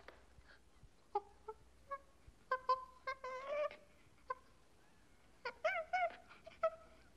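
A small animal's short, high-pitched calls, some sliding up or down in pitch, coming in scattered bursts with quiet gaps between.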